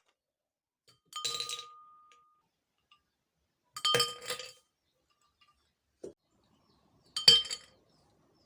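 Glass clinking in three short bursts about three seconds apart, each a quick cluster of clinks with a brief ringing tone after it, plus a faint soft knock between the second and third.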